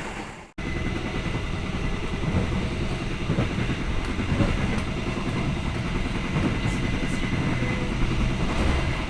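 Passenger train running along the track, heard from aboard a carriage: a steady low rumble of wheels on rail with an even hiss above it. It fades out and cuts back in about half a second in.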